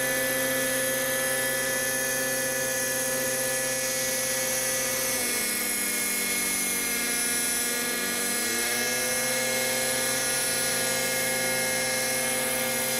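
Radio-controlled model aircraft engine running at steady high revs with a buzzing whine. It is throttled back about five seconds in and opened up again about three seconds later.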